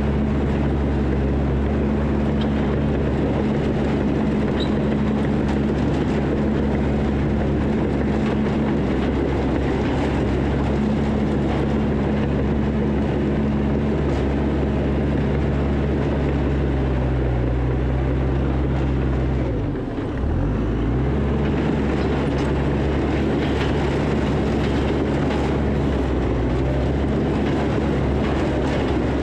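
Diesel engine of heavy earthmoving equipment running steadily at working speed, with a brief dip in pitch about two-thirds of the way through before it picks back up.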